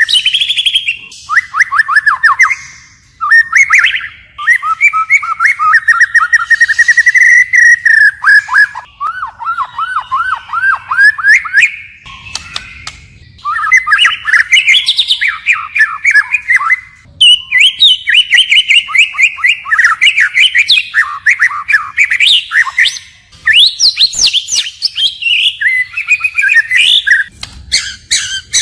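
White-rumped shama singing a long, varied song of rapid whistled trills and phrases, switching to a new phrase every second or two with only short pauses between.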